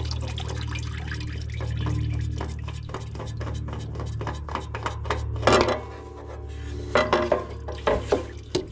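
Oil filter wrench clicking and clinking against the spin-on oil filter of a John Deere Z910A zero-turn mower as the filter is unscrewed, a run of short metallic clicks and knocks with a louder clatter partway through. A steady low hum runs underneath.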